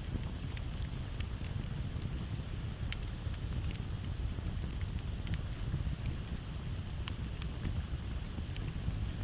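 Campfire crackling, with sharp pops at irregular times over a low steady rumble. Crickets trill steadily in the background.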